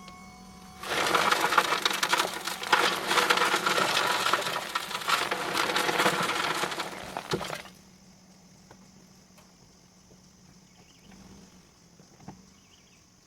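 Crushed stone pouring and clattering in a steady rush of many small rock impacts for about seven seconds, then stopping; a few faint knocks follow.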